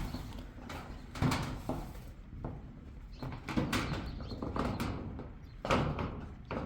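A series of irregular knocks and thumps, the loudest about a second in and again near the end.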